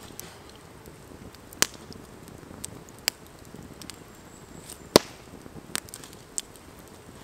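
Wood campfire crackling, with a few sharp pops spaced about a second apart over a low steady hiss; the loudest pop comes about five seconds in.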